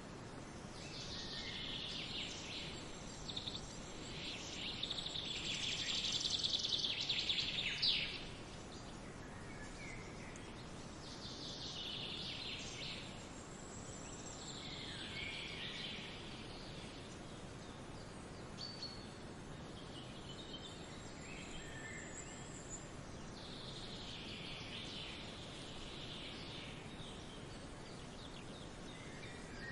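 Small songbirds singing in separate phrases over a steady background hiss. The longest and loudest phrase is a fast trill lasting several seconds near the start, and shorter calls follow every few seconds.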